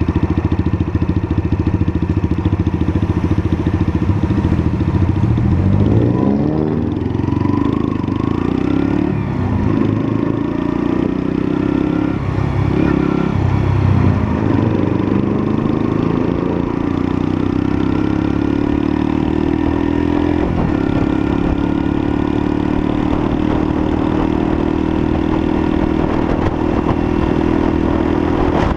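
Lexmoto LSM 125 motorcycle's 125cc engine running on the road. Its pitch is steady at first, then drops and rises several times through gear changes, and in the second half climbs slowly and evenly as the bike gathers speed.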